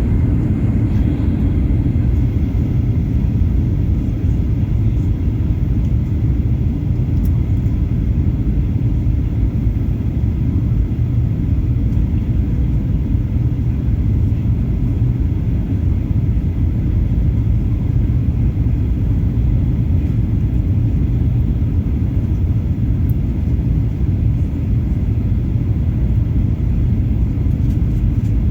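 Cabin noise inside a Boeing 737-800 in flight: a steady low rumble of its CFM56 jet engines and the airflow over the fuselage, heard from a window seat.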